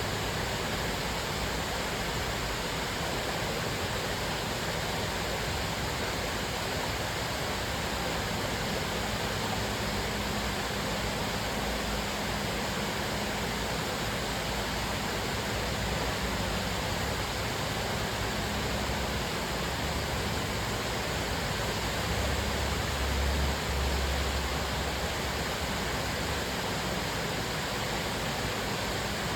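Cascading waterfall, a steady rush of falling water. A low rumble swells briefly about three-quarters of the way through.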